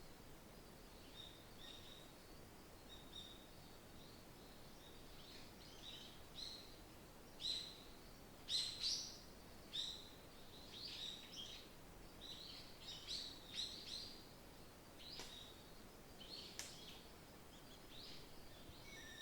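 Small songbirds chirping and twittering in short high calls, sparse at first and busiest about halfway through, over a faint steady hiss of wind.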